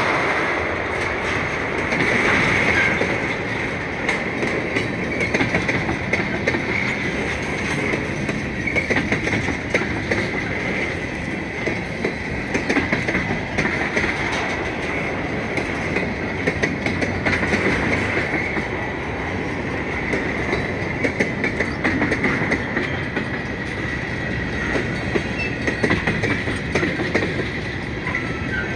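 Freight train of steel tank cars rolling past close by: a steady rumble of wheels on the rails with rapid clickety-clack of wheels over rail joints, and a thin, steady high squeal from the wheels running through it.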